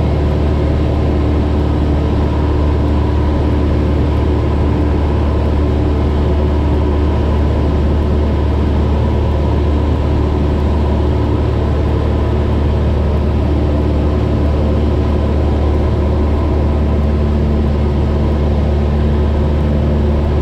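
Cessna 172's piston engine and propeller droning steadily in cruise, heard inside the cabin: an even, unchanging low hum with no change in power.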